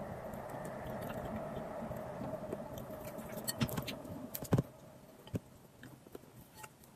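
Close-up eating sounds: chewing and mouth noises as roast chicken is eaten by hand, with a few sharp clicks, the loudest about four and a half seconds in. A steady background hum fades out about halfway through.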